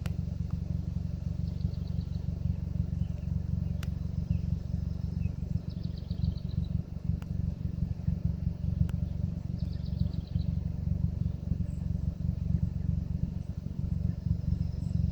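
Wind buffeting the microphone outdoors: a steady, gusting low rumble.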